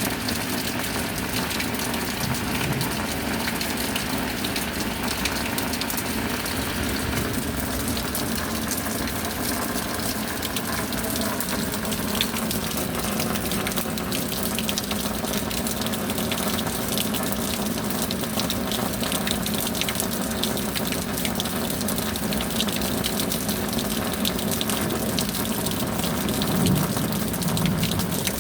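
Steady rain falling, a continuous wash of water with countless fine drop hits.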